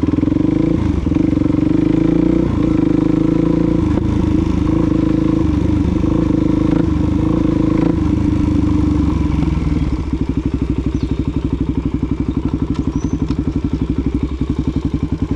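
Suzuki DR-Z400SM's single-cylinder four-stroke engine running steadily under way. About ten seconds in it drops to low revs, with a slower run of even pulses.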